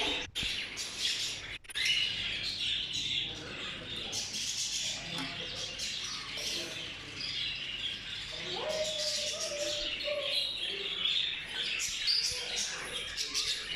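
A group of small cage birds chirping and chattering continuously, with a few lower calls in the middle.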